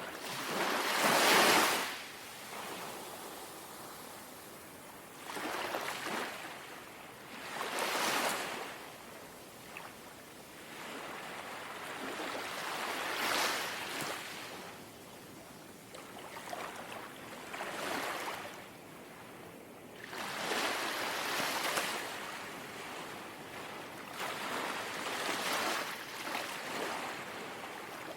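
Small, gentle sea waves lapping and washing ashore in a steady series of soft swells, one every few seconds, the first about a second in the loudest.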